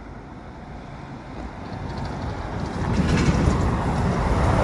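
A bus approaching along the road, its engine rumble and tyre noise growing steadily louder from about two seconds in.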